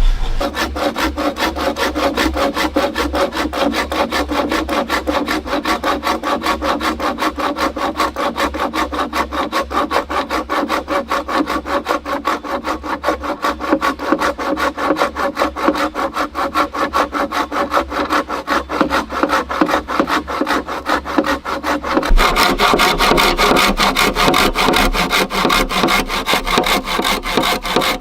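Hand saw cutting through wood with fast, even back-and-forth strokes; about three-quarters of the way through, the strokes get a little louder and brighter.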